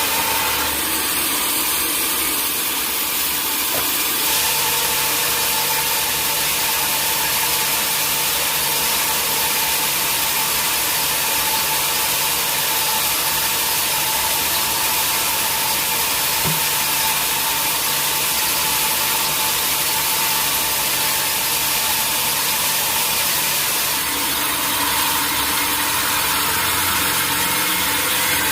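Sawmill machinery running steadily, its saw cutting through a mahogany log with a constant hiss over the machine's motor. A low hum sets in about four seconds in and drops away near the end.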